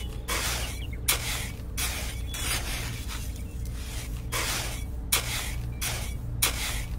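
Tiny metal trowel scraping and spreading coloured sand over soil: a run of short, rasping scrapes, about one and a half a second, over a steady low hum.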